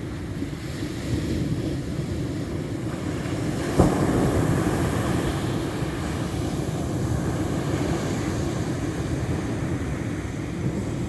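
Ocean surf: waves breaking and washing in a continuous rumble, with wind buffeting the microphone. A sharp thump just before four seconds in is followed by a swell as a wave comes in.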